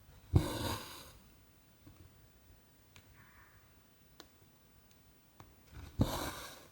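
Needle popping through 14-count cross-stitch fabric and cotton embroidery thread drawn through with a rustling swish, twice: once about a second in and again near the end, with faint ticks of the needle on the fabric between.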